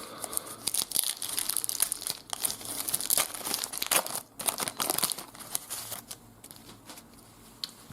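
A trading card pack wrapper being torn open and crinkled by hand, with dense crackling for about five seconds that then dies down.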